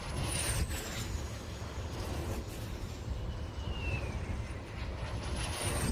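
Nordex N131/3900 wind turbine rotor blade sweeping round with a jet-like whoosh, over a steady low rumble. A high whine glides down in pitch about three seconds in, and a fainter, higher tone rises and falls near the start and the end.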